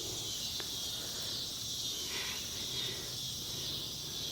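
Steady high chirring of insects in the surrounding grass, with a faint click about half a second in.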